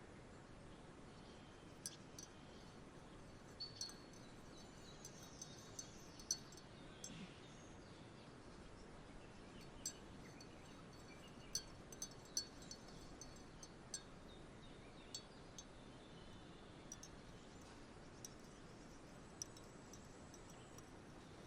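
Wind chimes tinkling faintly and irregularly, a couple of dozen light high pings, some ringing on briefly, over a steady soft outdoor hiss.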